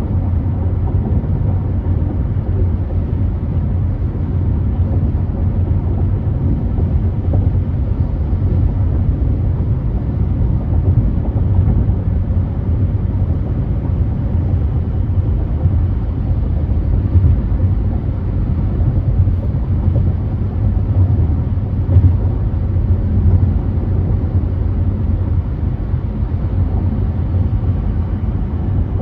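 Car driving on a freeway: a steady low rumble of road and engine noise that holds at freeway speed without a break.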